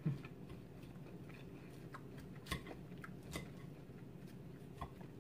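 Quiet chewing of a mouthful of salad, with a few scattered light clicks of a fork against the plate.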